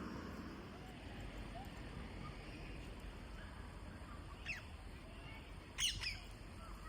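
Faint outdoor ambience with two short bird calls, one about four and a half seconds in and a louder double call near the end.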